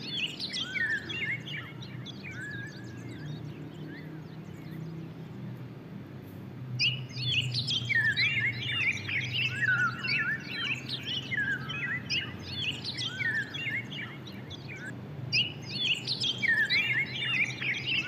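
Many small birds chirping in quick, overlapping calls that come and go in bursts, over a low steady hum.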